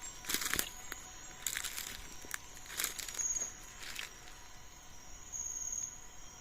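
Footsteps crunching through dry forest leaf litter about once a second, stopping about four seconds in, with an insect's short pulsed trill repeating over the quiet forest background.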